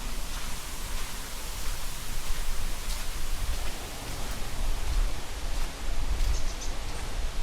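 Wind blowing across the microphone: a steady rushing hiss with a low rumble that swells and fades in gusts.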